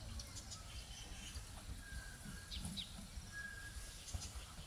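Mixed wild birds calling: scattered short high chirps and two brief steady whistles, over a low background rumble.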